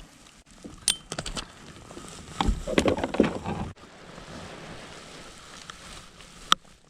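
Clicks and knocks of gear being handled aboard a fishing kayak, loudest in a cluster a little before the middle, then a steady rushing noise, ending with one sharp click.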